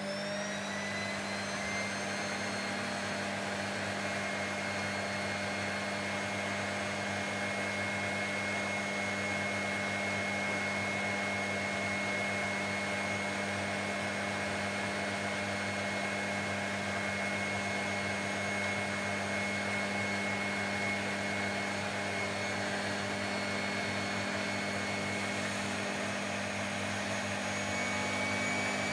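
A household appliance's electric motor running steadily, a constant rushing noise with a high whine over it; the whine rises slightly near the end.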